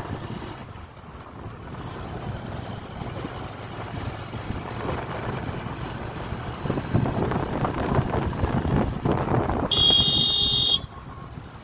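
Wind buffeting the microphone over an uneven low rumble that swells and fades. Near the end a loud high-pitched tone sounds for about a second and stops abruptly.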